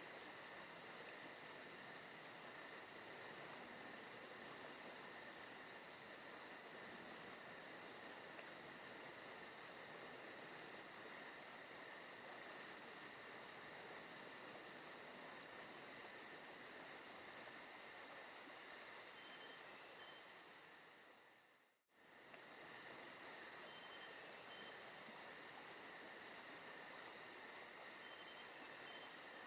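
Steady night chorus of crickets and other insects chirring, a forest ambience recording; it fades out briefly and back in about three quarters of the way through.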